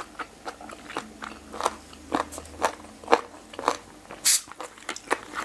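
Close-miked crunchy chewing of boiled pig ear, the cartilage crackling in irregular crunches, with one louder crackle about four seconds in.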